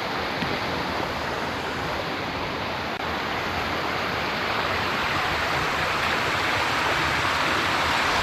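Steady rushing of running water from a stream, growing a little louder near the end.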